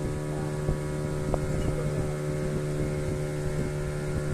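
Boat engine running with a steady low hum, with wind buffeting the microphone.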